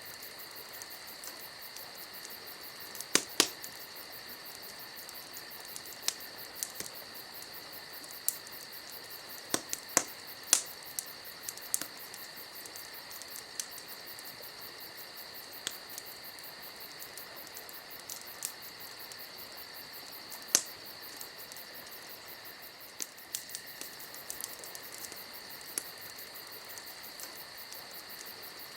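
Campfire crackling, with sharp irregular pops scattered through, over a steady high chirring of crickets.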